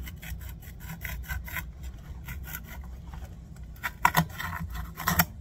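Rapid, rhythmic metal scraping strokes, about five or six a second, as a shim is worked into a motorbike wheel hub, loosening into irregular scraping. Two louder clusters of clicks and knocks come near the end.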